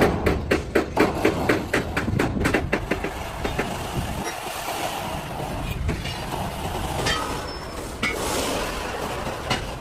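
Rapid, evenly spaced knocks, about four a second, for the first two and a half seconds, giving way to a steady rushing noise with occasional clicks.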